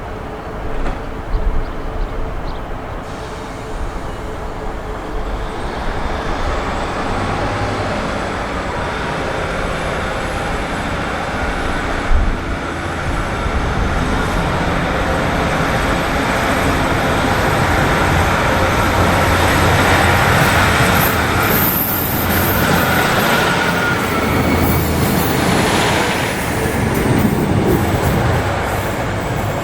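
A train moving through the station. Its running noise builds steadily to its loudest about two-thirds of the way through, then eases off slightly.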